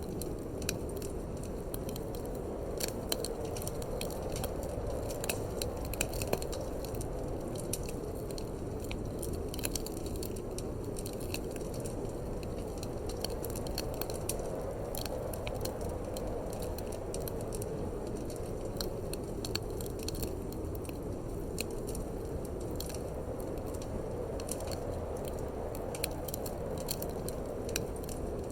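Wood fire in a fireplace crackling, with many irregular sharp snaps and pops, over a steady low rush of wind that swells and eases slightly.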